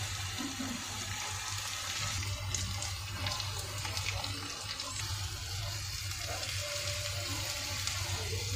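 Onion-tomato masala sizzling in hot oil in a non-stick kadai, a steady hiss over a low hum, with a few light scrapes of a steel spoon against the pan between about two and five seconds in.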